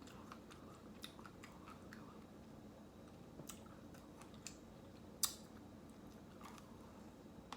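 Quiet close-up chewing and mouth sounds of someone eating ice cream, with scattered soft clicks and one sharper click about five seconds in.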